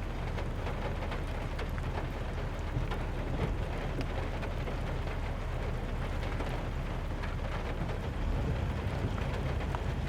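Heavy rain falling and pattering on surfaces close by, a dense steady hiss flecked with individual drop ticks, over a steady low rumble.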